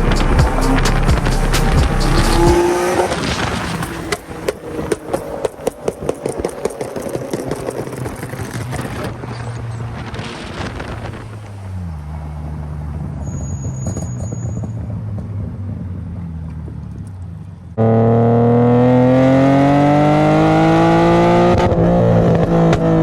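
BMW E36 M3 straight-six through a straight 3-inch exhaust and Vibrant muffler: a run of sharp exhaust pops and crackles, then the revs fall to a steady idle. Near the end the engine suddenly opens up under hard acceleration, its pitch climbing for a few seconds.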